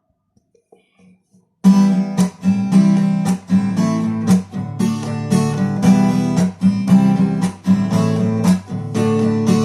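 Acoustic guitar strumming a rhythmic pattern as the intro of a song, starting abruptly about a second and a half in after near silence.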